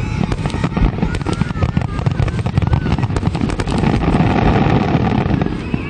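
Fireworks going off: a dense run of crackling pops over low booms, loudest from about four seconds in and dropping away near the end.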